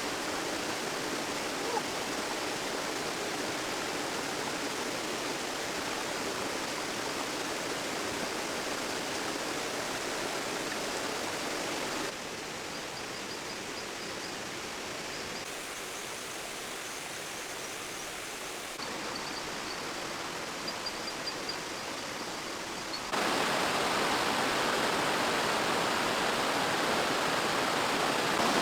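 Steady rushing noise of water, its level stepping abruptly down and back up a few times as shots change. Faint high chirps come through in the quieter middle stretch.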